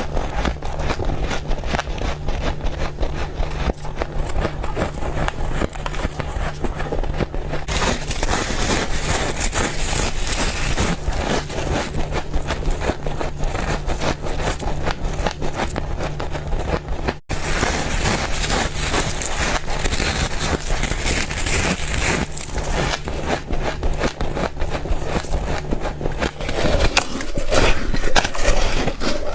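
Freezer frost being bitten and chewed close to the microphone: rapid crackling crunches one after another, over a steady low hum that stops near the end.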